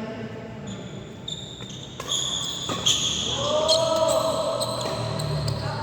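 Badminton rally on an indoor court: sharp racket strikes on the shuttlecock and shoes squeaking on the court floor, growing busier about two seconds in.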